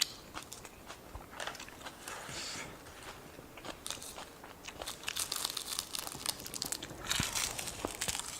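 A person chewing and biting food up close, with crunchy, crackly bursts of chewing about two seconds in, from about five to six seconds, and again near the end.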